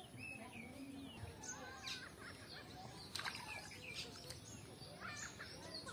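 Several small birds chirping and calling in short, scattered notes over faint outdoor background noise, with a brief sharp click about three seconds in.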